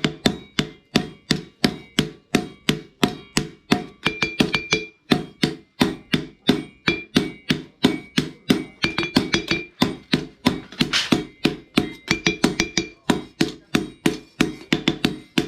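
Steel being hammered on an anvil in a fast, even rhythm of about three to four blows a second, the metal ringing after many strikes: chainsaw-bar steel being forged into a chopping blade.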